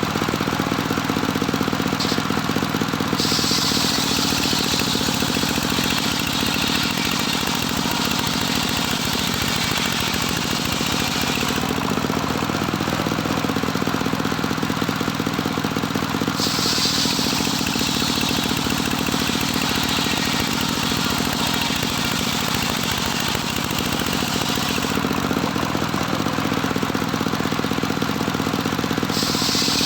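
Engine-driven home-built circular saw running steadily, with the engine droning throughout. Twice, for about eight seconds at a time, and again near the end, a harsher high hiss joins it as the blade cuts through boards, with shorter stretches of plain running in between.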